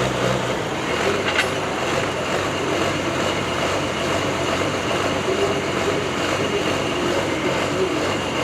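Engine of a pulling truck or tractor running loud and steady, with a brief click about a second and a half in.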